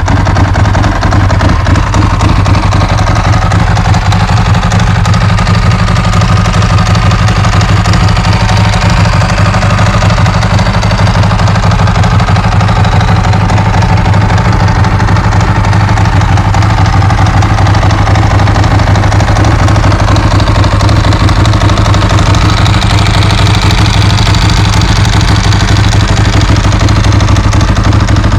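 Ducati 916's 90-degree V-twin engine idling steadily after a cold start.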